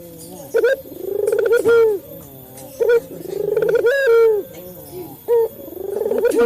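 Male puter dove (domestic collared dove) cooing. A short note is followed by a long rolling coo, and the phrase repeats three times about two seconds apart.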